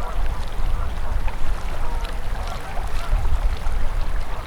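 Open winter river flowing and gurgling steadily, with a strong low rumble underneath.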